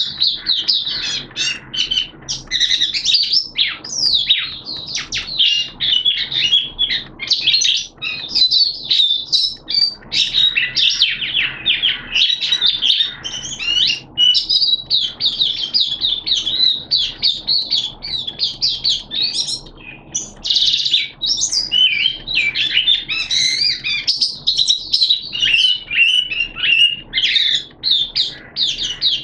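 White-eye (mata puteh) singing a long, rapid, unbroken run of high twittering chirps and trills, the cage bird in full song.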